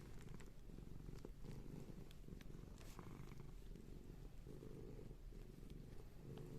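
Domestic cat purring, a steady low rumble, with a few faint clicks over it.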